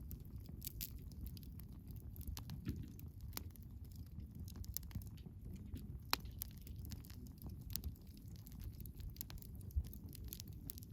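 Wood bonfire crackling: irregular snaps and pops of burning firewood over a steady low rumble of the flames, with a sharper pop about six seconds in and another near the end.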